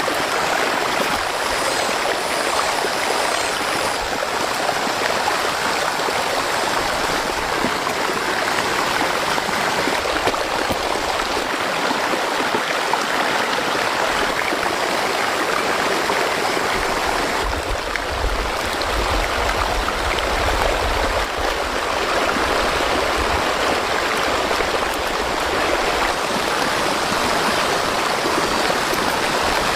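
Fast-flowing floodwater rushing steadily, with a low rumble added for a few seconds midway.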